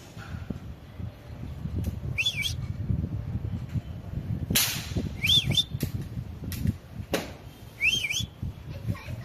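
A parrot whistling the same short up-and-down phrase three times, a few seconds apart, over low rustling. Two sharp clicks come between the whistles.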